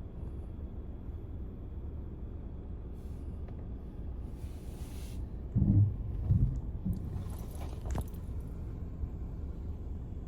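Steady low rumble of a car being driven, heard from inside the cabin. Two louder low thumps a little past halfway and a sharp click near the end.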